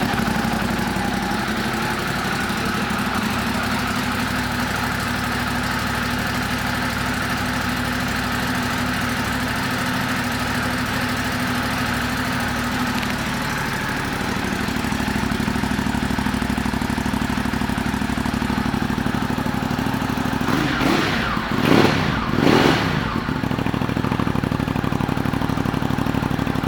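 2019 Ducati Monster 821's 821 cc Testastretta L-twin engine on its stock exhaust, idling steadily. About three-quarters of the way through the throttle is blipped twice in quick succession, each rev rising and falling back, before it settles to idle again.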